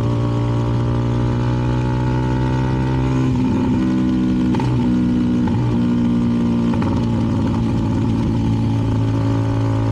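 CFMoto 300NK single-cylinder engine through a KO aftermarket exhaust, pulling along at road speed with two up. Its pitch dips and changes a few times in the middle, then holds steady again.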